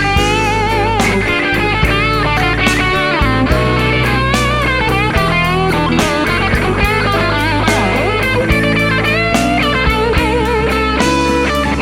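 Blues-rock song in an instrumental break: an electric guitar plays a lead line full of bent and vibrato notes over bass and drums.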